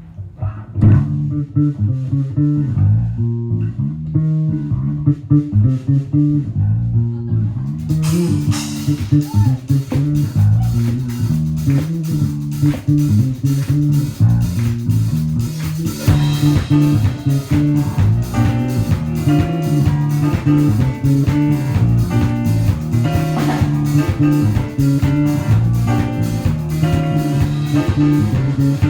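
Rock band playing live: a bass and guitar riff alone, then the drum kit with cymbals comes in about eight seconds in, and the band grows fuller about halfway through.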